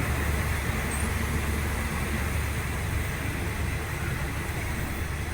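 Passenger train running, heard from inside a third-class coach: a steady low rumble under an even hiss of wheels and rushing air.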